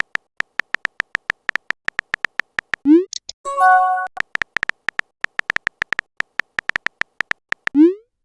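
Smartphone keyboard typing sound effect: a quick, irregular run of short clicks. About three seconds in it is broken by a rising swoop and a short chime, the sound of a chat message being sent and arriving. The typing clicks then resume and end in another rising swoop near the end.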